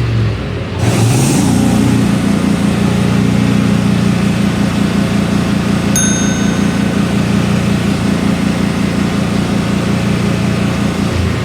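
John Deere Gator engine revving up from idle just under a second in, held at a steady high speed, then dropping back to idle near the end: a wide-open-throttle run to burn carbon out of an engine that had been running rich and fouling its spark plugs. A short metallic ding about halfway through.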